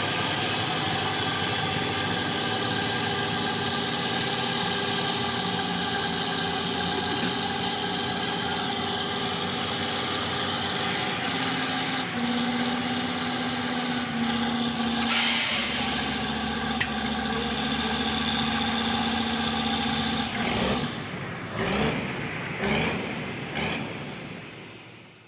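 Heavy logging truck's diesel engine running steadily, its pitch stepping up and down a few times as the revs change. A short burst of air-brake hiss comes about fifteen seconds in. The engine sound breaks up and fades out near the end.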